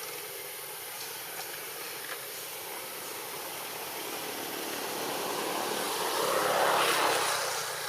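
Steady outdoor hiss, then a vehicle passing by: a noisy rush that swells about five seconds in, peaks and fades near the end.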